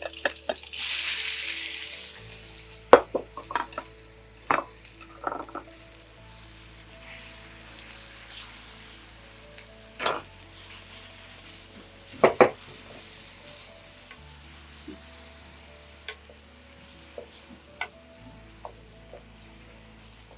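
Raw chicken pieces going into hot oil in a frying pan: a loud sizzle about a second in, then steady frying sizzle as the chicken is stir-fried with a wooden spatula, with occasional knocks of utensils against the pan.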